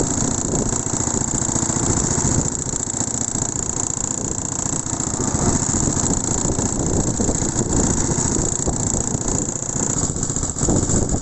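Strong sea wind blowing across the microphone with waves, a continuous rumble without a break.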